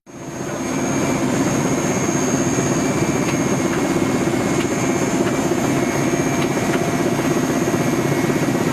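Helicopter in flight: steady engine and rotor noise with a fast, even pulsing and a high whine above it, starting suddenly at a cut.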